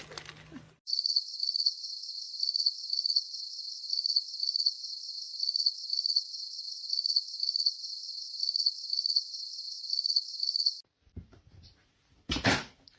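Cricket chirping: a steady, rapid, evenly repeating high-pitched chirp that starts and cuts off abruptly after about ten seconds. A brief loud noise follows near the end.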